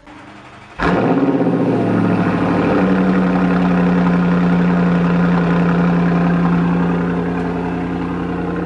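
Audi RS7 Performance's twin-turbo 4.0-litre V8 starting, heard at the exhaust tips: a short, faint starter crank, then the engine catches with a loud flare about a second in and settles into a steady idle that eases slightly near the end.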